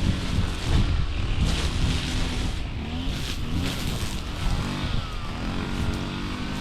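Small petrol engine running, its revs rising and falling, as on a grass-cutting machine.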